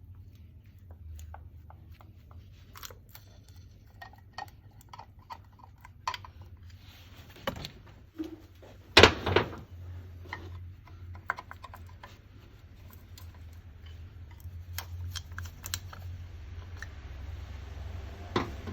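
Metal tools and parts of a Nippondenso car air-conditioning compressor clinking and knocking as it is worked on by hand, with scattered light clicks and a sharp double knock about nine seconds in, over a steady low hum.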